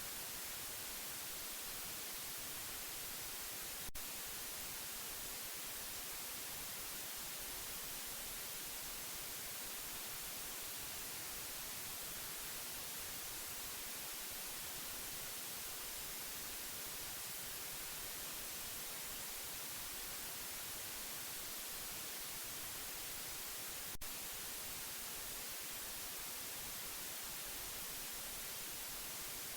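Steady white noise: an even, unchanging hiss, strongest in the treble. Two faint clicks break it, about four seconds in and again twenty seconds later.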